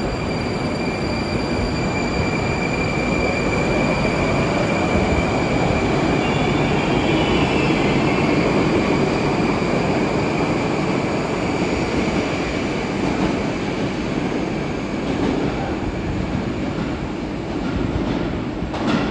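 Moskva-type (81-765) metro train running through the station with a steady rumble of wheels on rails. A thin high whine sits over it and fades out about halfway through, and there is a short knock near the end.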